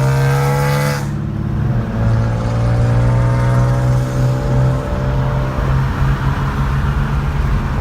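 Car engine running steadily at low revs, with a brief dip in pitch a little under two seconds in.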